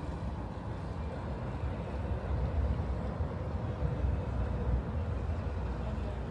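Steady low rumble of city outdoor ambience, with no distinct single event standing out.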